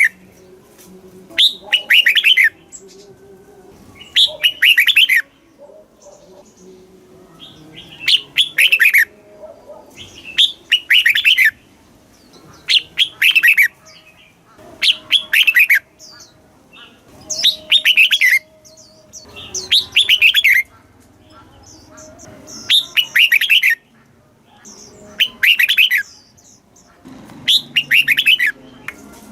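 Red-whiskered bulbul singing: bright, loud song phrases about a second long, each given as a quick double, repeated about every two and a half seconds. This is the doubled, competition-style bulbul song played to caged birds to excite them or to teach young birds.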